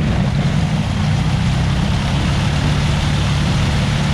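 Honda ATV engine running under load at fairly steady revs, straining as it works through mud.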